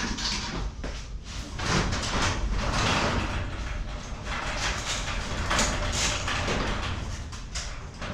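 Sectional garage door being hauled up by hand, its panels and rollers rattling and scraping in the tracks in uneven bursts. The door's spring is broken, so it is lifted without spring assist.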